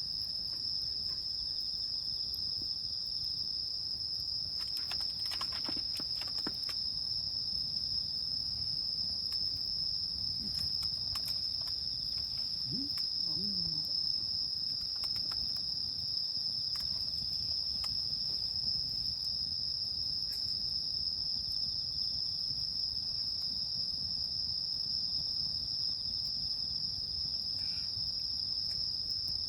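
Night insect chorus: a steady, unbroken high-pitched trilling. Faint scattered crackles, most around five to seven seconds in, come from the wood campfire.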